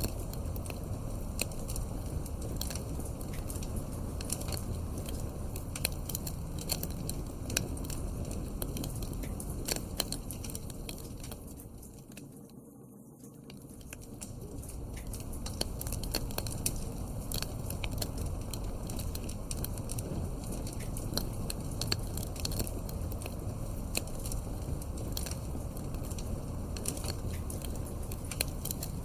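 Wood fire crackling in a fireplace: a steady low rumble with many sharp pops and snaps. About twelve seconds in the sound fades down and then swells back up over a couple of seconds.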